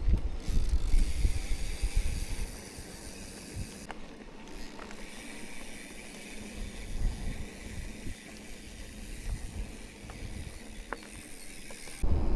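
Amflow e-mountain bike rolling along a trail: loud tyre rumble and wind on the microphone for the first couple of seconds, then quieter rolling with a few light mechanical clicks, getting loud again near the end.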